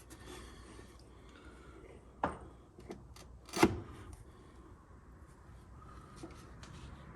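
A TH400 transmission's oil pump being fitted into the case: faint rubbing and small metal clicks, with two sharp knocks about a second apart, the second louder.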